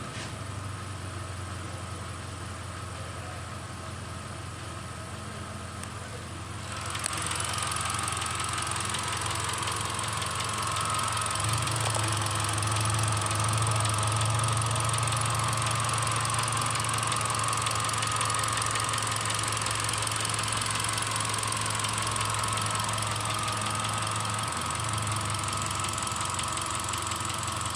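Hyundai Accent engine running steadily, growing louder with more hiss about a quarter of the way in.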